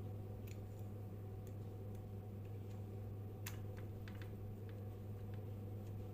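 Ceiling fan motor running with a steady low electrical hum, with a few faint light clicks scattered through it.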